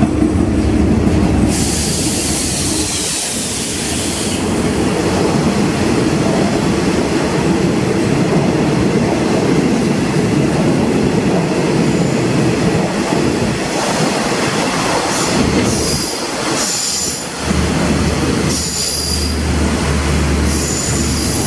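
Passenger train hauled by a diesel locomotive rolling past along the platform. The locomotive's engine hums at first, then the coaches rumble by with high squeals from the running gear, once about two seconds in and again several times in the last seven seconds.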